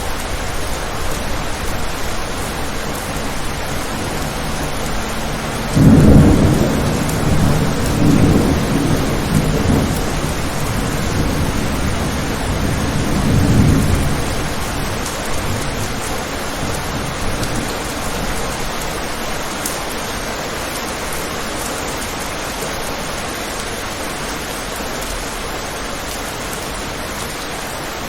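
Steady rain falling, with a clap of thunder about six seconds in that rolls and rumbles in several swells for around eight seconds before dying away.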